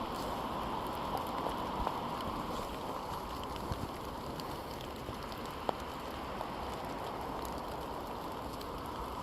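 Steady rain falling, an even hiss with a few scattered drips ticking.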